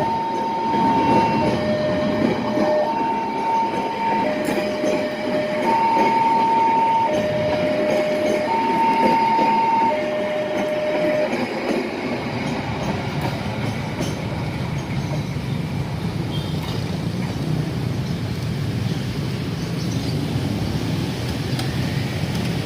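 Argo Wilis express train running past with a steady rail rumble. Over it a two-tone warning signal alternates high and low about once a second, then stops about eleven seconds in while the train noise carries on.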